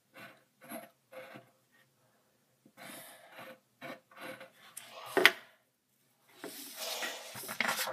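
Drawing strokes on paper, scratchy and rasping. A few quick short strokes come first, then a pause, then more strokes with one louder one about five seconds in, and a longer stretch of rubbing near the end.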